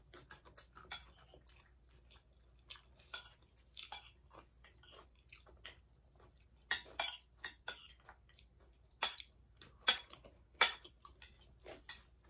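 Close-up chewing and crunching of chatpate, a crunchy puffed-rice snack, in many short irregular crunches, a few of them louder in the second half, with light clinks of forks and spoons on plates.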